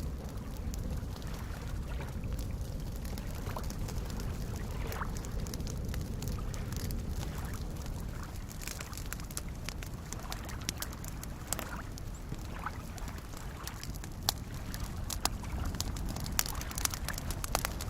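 Campfire crackling, with sharp pops that come more often in the second half, over soft lake waves lapping and gurgling.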